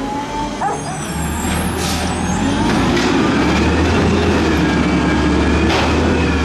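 Peterbilt 320 garbage truck's diesel engine being revved: it builds up about a second in, climbs in pitch over the next couple of seconds, and holds at high revs.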